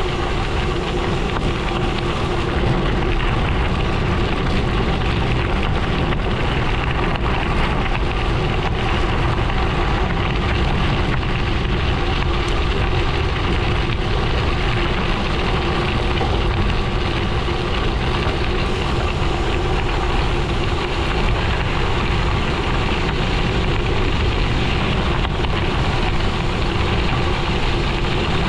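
Gravel bike tyres rolling over a gravel road, a steady unbroken rumble and crackle.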